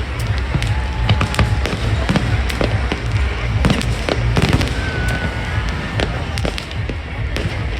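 Fireworks going off in quick succession: many sharp bangs and crackles over a continuous deep rumble.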